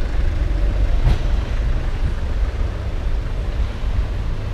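Steady low rumble of outdoor city ambience, with a single sharp click about a second in.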